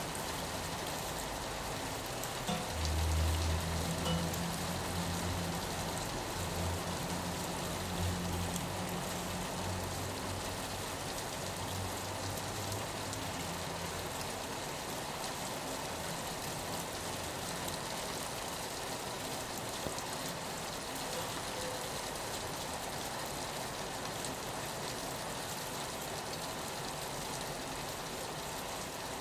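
Steady rain pattering on a window. A low droning hum sits underneath from a couple of seconds in until about halfway, then fades out.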